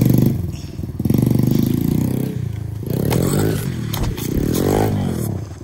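Small dirt bike engine running and being revved up and down, with a dip in revs about half a second in. Some knocks and a clatter come partway through.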